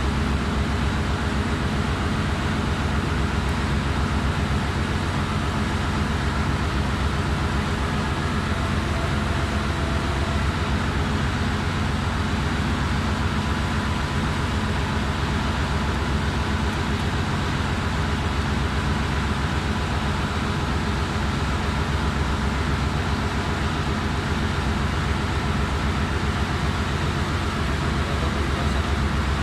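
Steady drone of running machinery in a ship's engine room: a low hum of constant pitch with a wide noisy wash above it, unchanging throughout.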